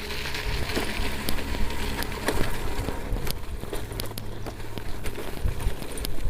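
Mountain bikes rolling down a dirt trail: tyres crunching over gravel with a steady low rumble and many small clicks and rattles from the bikes.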